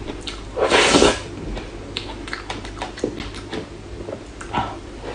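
Close-miked eating sounds from a soft cream dessert: a louder, noisy bite or rustle about a second in, then a run of small wet mouth clicks and smacks while chewing.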